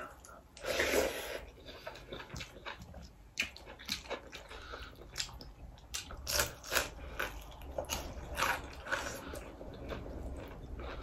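Close-miked eating: biting and chewing fried duck meat and rice, a string of short, irregular mouth clicks.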